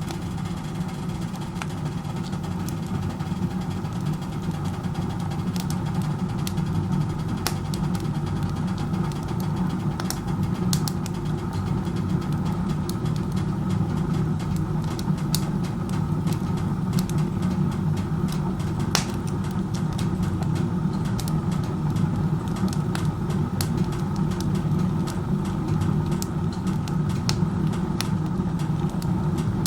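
Wood stove burning with its door open like a fireplace: a steady low roar of air drawn hard up the chimney, with scattered sharp crackles and pops from the burning wood. The draft is very strong, which the owner takes as a sign of poor combustion efficiency.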